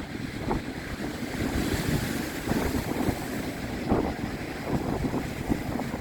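Strong wind buffeting the microphone in irregular gusts, over the steady noise of sea waves breaking and splashing on the shore.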